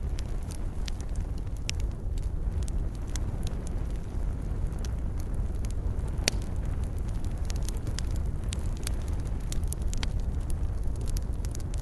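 Campfire of burning wood crackling: irregular sharp pops and snaps over a steady low rumble, with one louder pop about six seconds in.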